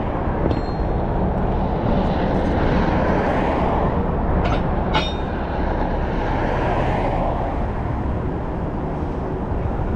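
Steady engine and road rumble inside a moving truck's cab, with a few brief clicks or rattles.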